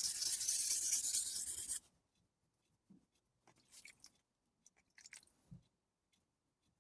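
Global G-48 santoku's steel blade being stroked on a soaked coarse 200-grit Chroma whetstone, a steady gritty scraping that stops abruptly about two seconds in. Then a few faint brief scrapes and light knocks.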